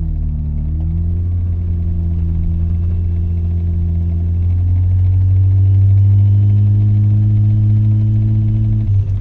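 Mazda RX-7 rotary engine droning through an RE Amemiya Dolphin Tail 90 Curl exhaust at a steady engine speed, heard from inside the cabin with the windows down. The pitch creeps up and grows a little louder past the middle, then the drone drops off just before the end as the throttle is eased.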